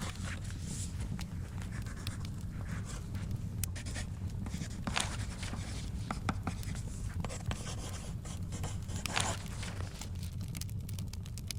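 Wood fire in a fireplace crackling with sharp pops over a steady low rumble, while book pages rustle as they are turned, most clearly about five and nine seconds in.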